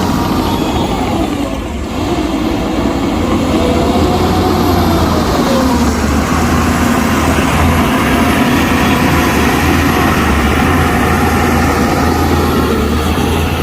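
Heavy diesel earthmoving machinery running, a steady low rumble with the engine pitch rising and falling as the machines work.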